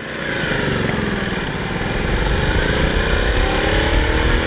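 Motorcycle engine running under way, its pitch rising steadily from about halfway through as it picks up speed, over a low rumble.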